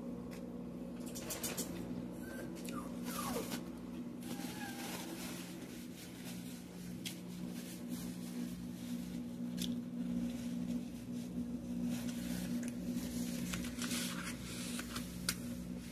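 Close-up eating sounds: chewing and smacking with many small clicks and crackles, over a steady low hum.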